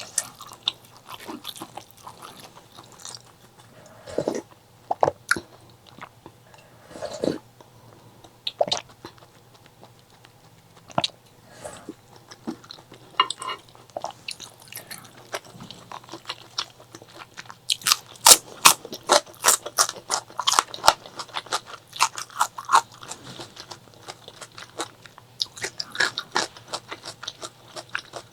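Close-miked eating sounds: chewing and crunching food in irregular clusters of short, crisp crackles, thickest in the second half.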